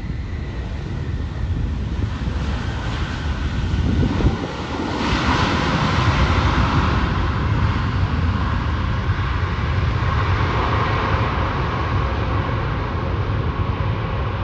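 Jet airliner engine noise that grows louder about five seconds in, with wind buffeting the microphone.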